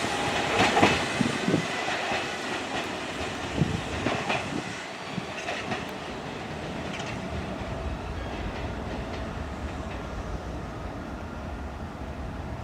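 Kintetsu electric train running along the track, its wheels clattering over rail joints with a series of knocks. It fades away over the first half, leaving a steady, quieter rumble.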